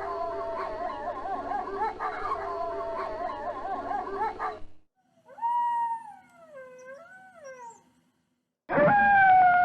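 Wolves howling: a chorus of several overlapping, wavering howls that cuts off after about four and a half seconds, then a single howl sliding down and back up, then a louder howl falling in pitch starting near the end.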